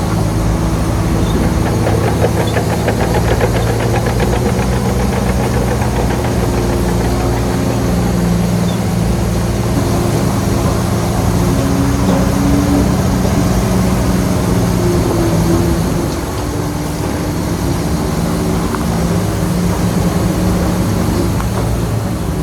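Heavy earthmoving machine's diesel engine running steadily with a rapid clatter, its pitch shifting slightly; it eases off a little about 16 seconds in.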